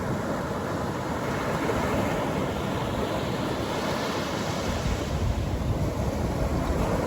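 Atlantic Ocean surf breaking and washing on a beach, a steady rush with a wave swelling up midway, and wind rumbling on the microphone.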